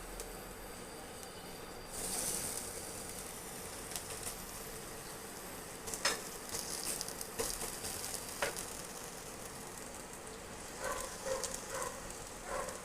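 Chilla sizzling on a hot pan: a steady frying hiss, louder for a moment about two seconds in. A few sharp clicks and short knocks from a utensil against the pan come in the second half.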